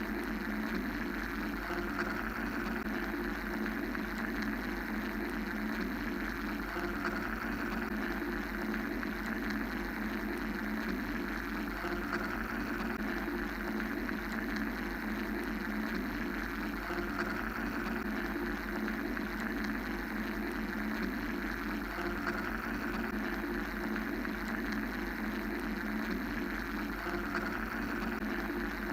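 Steady mechanical white-noise drone: a low hum under a hissing band that slowly swells and fades every few seconds.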